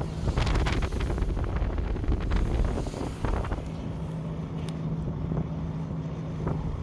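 A vehicle engine running steadily, with wind buffeting the microphone and a series of clattering knocks and rattles in the first few seconds.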